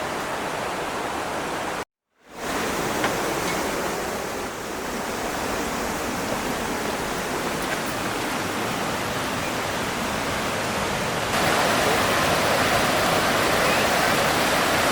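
Rushing creek water, a steady rush that cuts out for a moment about two seconds in, then resumes and grows louder near the end.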